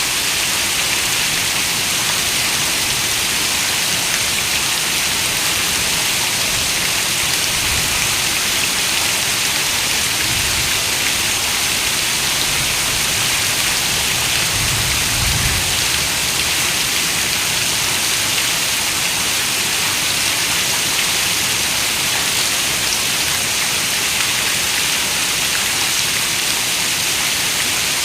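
Heavy rain falling on a window, a steady, even hiss of drops. A faint low rumble comes and goes about halfway through.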